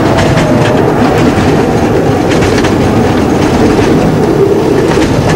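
Miniature railway train running along the track, heard from aboard: a loud, steady rumble of the wheels with clicks as they pass over rail joints.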